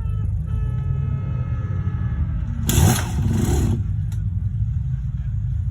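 Dirt bike engine running with a steady low rumble. A held tone with overtones sounds over it in the first two seconds. About three seconds in comes a loud rushing hiss lasting about a second.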